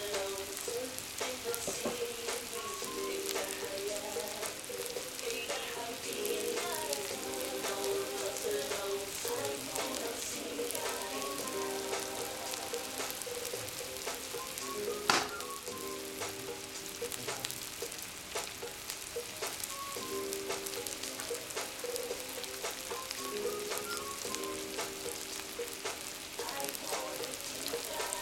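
Meat and julienned carrots sizzling in hot oil in a cast-iron kazan: a steady frying hiss at the zirvak stage of plov. One sharp pop comes about halfway through.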